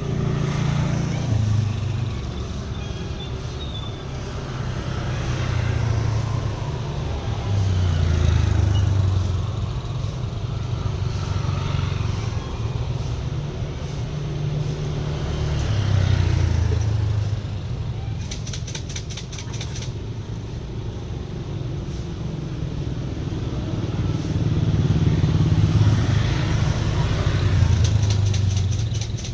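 Street traffic with motorcycles: a steady low engine rumble that swells and fades as vehicles pass, several times over. A brief run of rapid ticking comes about two-thirds of the way through.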